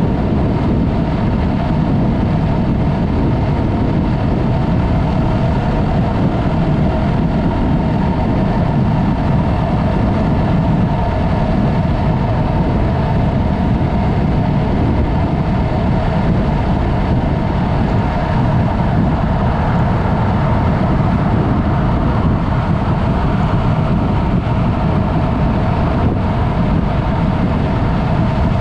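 Yamaha MT-03 motorcycle with an aftermarket Mivv exhaust being ridden at a steady pace, the engine and exhaust running evenly under continuous riding noise.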